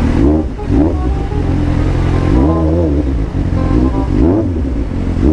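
Suzuki GSR 750 inline-four engine revving, its pitch rising and falling again several times in quick succession.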